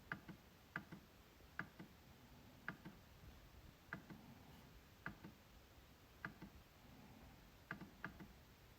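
MacBook trackpad clicking: sharp clicks at irregular intervals of about a second, several of them in quick pairs.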